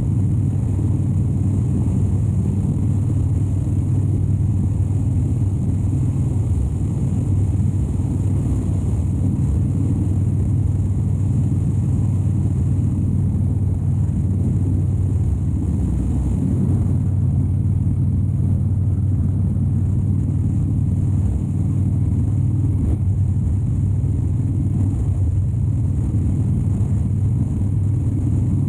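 2013 Harley-Davidson Dyna Wide Glide's 103-cubic-inch V-twin running at a steady cruise, its exhaust note holding an even pitch with no revving up or down.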